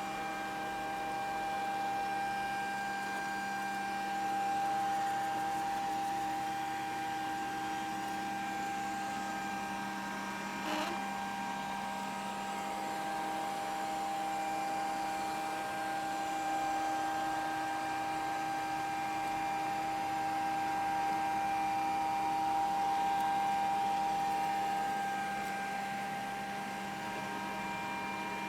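Grundig VCR 2131 robot vacuum cleaner running: a steady motor whine made of several fixed tones, with one brief knock about eleven seconds in.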